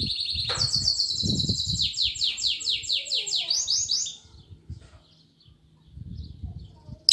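Pet bird singing: a steady high trill that turns into a quick run of repeated falling notes, about three or four a second, and stops about four seconds in. A short loud chirp comes right at the end.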